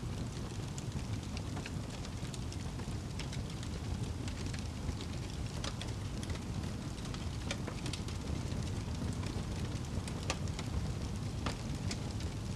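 Wood fire crackling, with irregular sharp pops and snaps scattered over a steady low rush.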